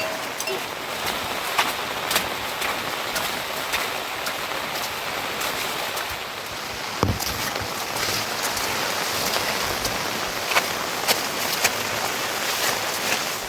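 Steady rain falling, with sharp single drops ticking close by. There is one dull thump about halfway through.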